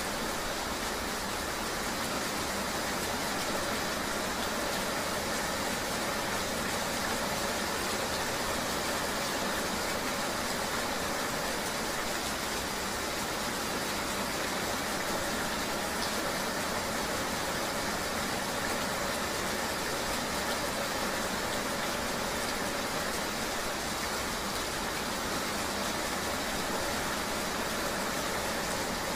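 Steady, unbroken rushing hiss of a rainy-day ambience, even in loudness throughout, with almost no deep bass.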